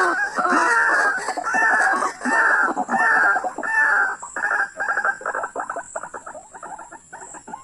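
White-breasted waterhen calling: a series of repeated harsh croaking calls, about one and a half a second, that speed up into a fast stuttering run and fade near the end.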